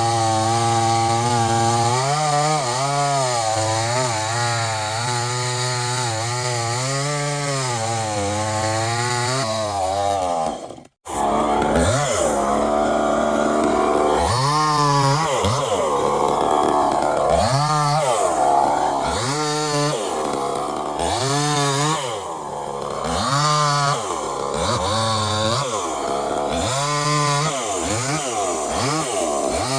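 Chainsaw running at a steady high pitch. The sound cuts out briefly about eleven seconds in, then the saw revs up and down repeatedly, about once every second and a half.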